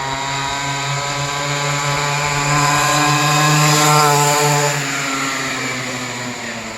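Homemade mini bike's small engine running at a steady speed, growing louder to a peak about four seconds in and then fading as it rides past, its pitch dropping slightly after the peak.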